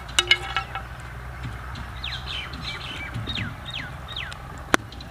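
Outdoor birdsong: a short squawk just after the start, then a run of quick whistled notes, each falling in pitch. A single sharp knock near the end.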